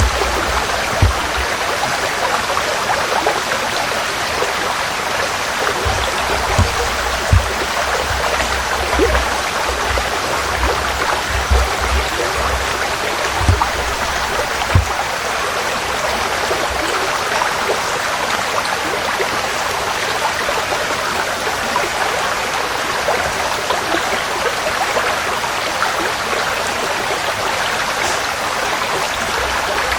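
Forest stream flowing steadily, a continuous rushing and trickling of water, with scattered low thumps during the first half.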